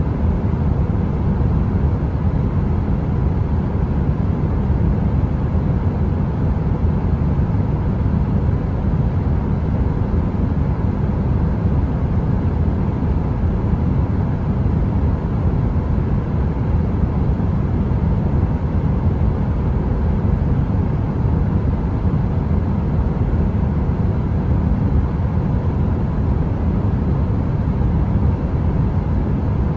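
Heater running: a steady, deep rushing noise with a faint, even hum and no crackle.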